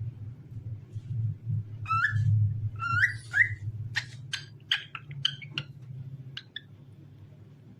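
Cockatiel whistling: a few rising whistled notes about two seconds in, then a quick run of short chirps, over a low steady hum.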